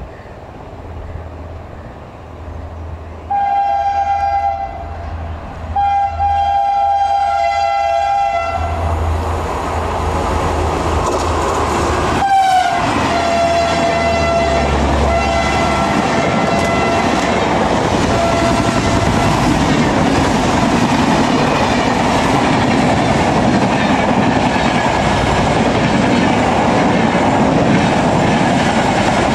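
WAP-4 electric locomotive's air horn sounding two long blasts as it approaches, then a third held as it passes, dropping in pitch about twelve seconds in. The coaches follow past at speed, a loud steady rush with wheel clatter.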